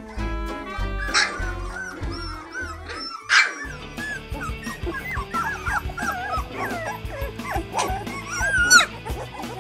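Background music with German shorthaired pointer puppies whimpering and yipping over it. Their short rising and falling whines come thickly from about three seconds in, with a louder squeal near the end.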